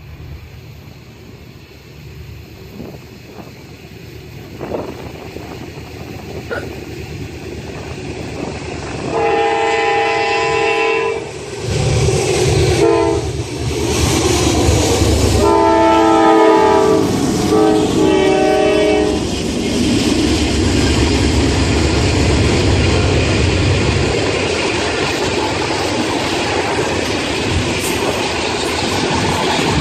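A train approaching, with a locomotive horn sounding two long blasts of several notes at once, the first about nine seconds in and the second about fifteen seconds in. The train then passes close and loud, wheels clattering along the rails.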